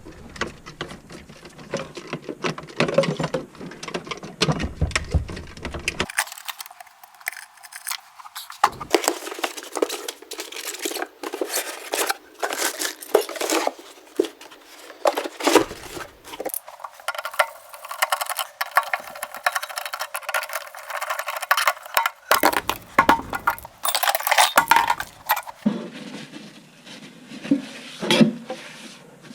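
Irregular clinking, clattering and knocking of hard objects being handled, many short sharp strikes with no steady machine sound.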